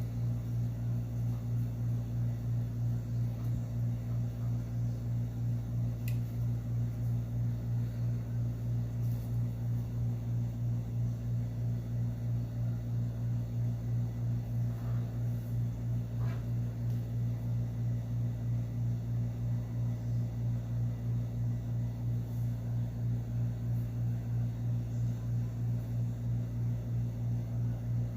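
A steady low hum from a small motor or fan, pulsing evenly about three times a second, with a few faint clicks.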